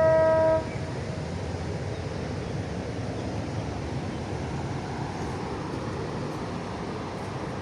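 A ship's horn ends a single steady blast about half a second in. After it comes a steady rush of wind and water noise.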